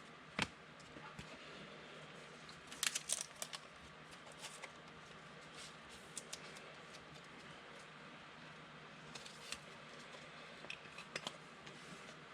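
Faint handling of trading cards: cards being slid and flipped, with scattered light clicks and rustles, a small cluster about three seconds in.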